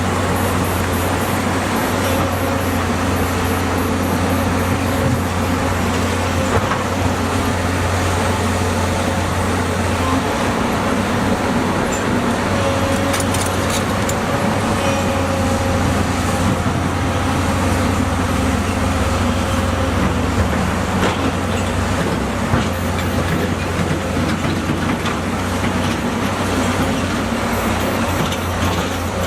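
Diesel engine of an earthmoving machine running steadily under load, a continuous low drone, with a faint higher whine that comes and goes around the middle.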